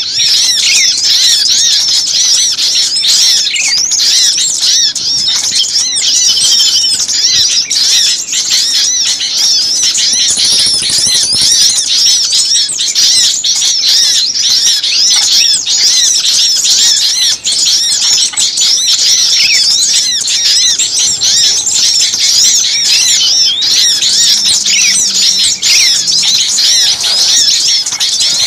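Dense chorus of many small birds chirping and twittering over one another, high-pitched and unbroken: a noisy bird-luring call recording.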